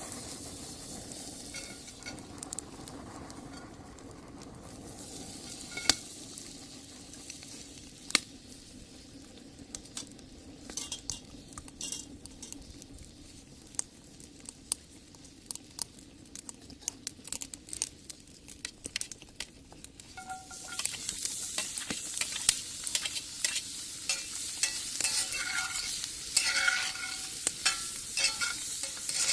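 Food sizzling in a cast-iron skillet, with frequent clicks and scrapes of a utensil against the pan. The sizzling grows louder about twenty seconds in.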